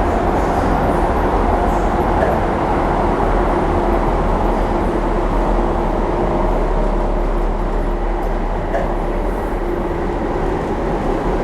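Docklands Light Railway train running, heard from inside the carriage: a steady low rumble of wheels on track, with a faint humming tone that comes and goes.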